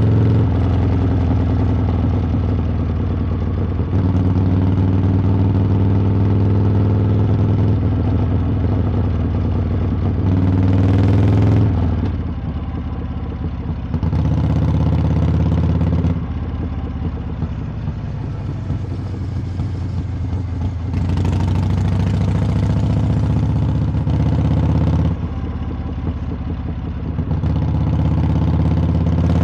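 Harley-Davidson V-twin motorcycle exhaust while riding, the throttle opened and closed in turns. The engine note rises steadily for a couple of seconds about ten seconds in, then drops suddenly, as at a gear change or throttle roll-off. After that it swings between louder pulls and quieter stretches every few seconds.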